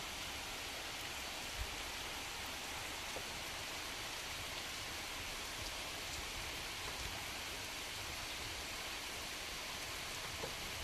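Steady rain falling on trees and fields, an even hiss with a couple of faint drip ticks.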